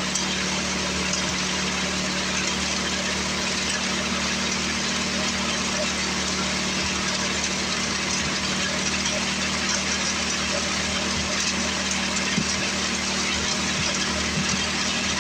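Craftsman 24 snowblower's single-cylinder Tecumseh four-stroke engine running steadily at constant speed, brought back to life after sitting for years and running smoothly.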